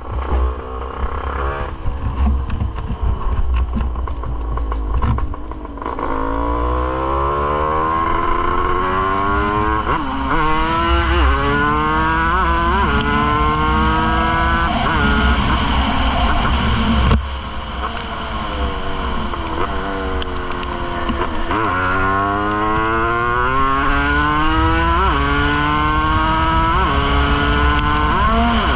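Yamaha DT200's two-stroke single-cylinder engine being ridden hard: after a few seconds of uneven running it revs up through the gears, the pitch climbing and dropping back at each shift. About halfway through it backs off with the pitch falling, then accelerates up through the gears again, with wind rumble on the microphone.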